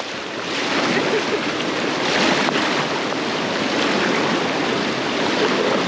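Whitewater of the Neretva river rushing steadily around a raft, with paddle strokes splashing in the water.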